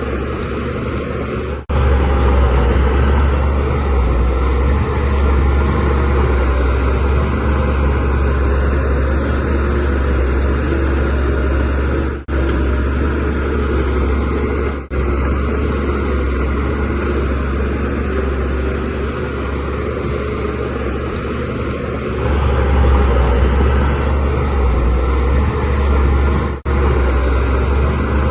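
Shantui DH17C3Pro bulldozer's diesel engine running steadily under load, a heavy low rumble with dense mechanical noise above it, broken by a few brief gaps.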